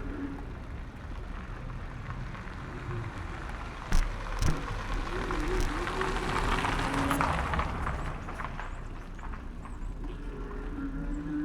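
Street noise heard from a handlebar-mounted camera on a moving bicycle: a steady rumble of the ride, two sharp knocks about four seconds in, and traffic noise that swells in the middle and fades.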